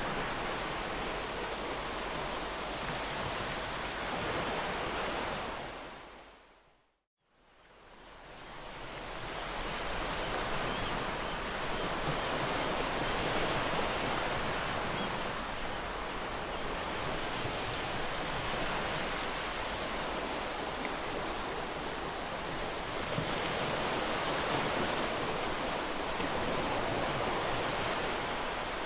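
Ocean surf breaking and washing on the shore: a steady rush of wave noise that swells and eases slowly. It fades out to silence about seven seconds in and fades back in over the next few seconds.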